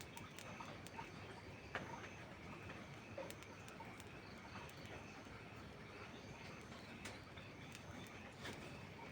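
Faint steady rain with scattered sharp pops and clicks from a crackling wood fire.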